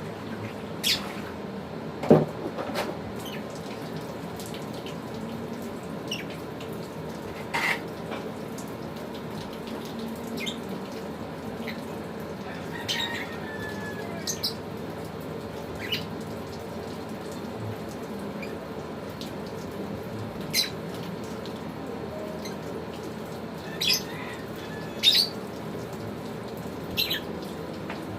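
Lovebirds giving scattered short chirps and squeaks over a steady hiss, with a few sharp clicks or taps; the loudest is a click about two seconds in, and the chirps bunch together near the end.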